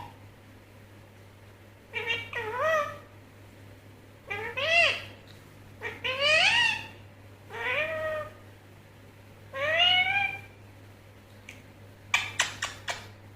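Indian ringneck parrot giving about six meow-like calls, each rising in pitch, with a few sharp clicks near the end.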